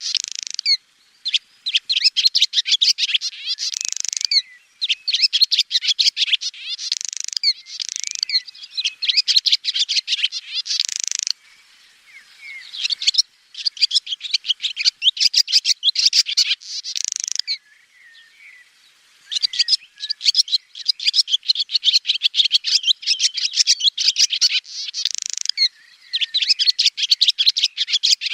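Swallow singing: phrases of rapid, high twittering, each two to three seconds long, separated by short pauses, with a couple of longer pauses in the middle.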